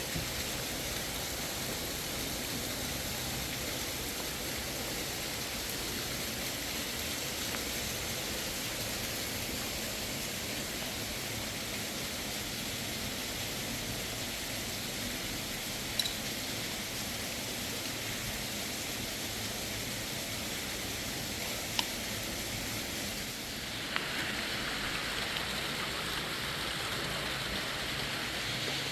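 Steady rushing of flowing water, with a couple of faint clicks; the rushing changes character about 24 seconds in.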